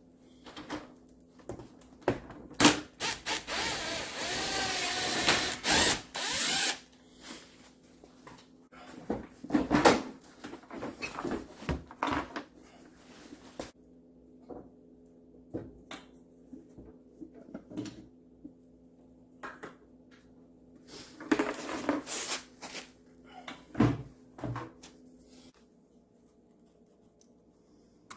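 A power tool runs in two bursts, a long one of about four seconds near the start and a shorter one later, with its motor pitch wavering, amid scattered clicks and knocks of parts and tools being handled.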